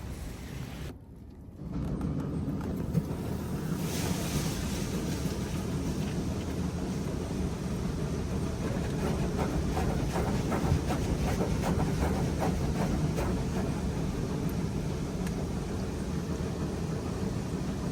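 Futura Revolution touchless car wash running, heard from inside the car: water jets spraying against the body and windows over a steady low rumble, after a short drop about a second in.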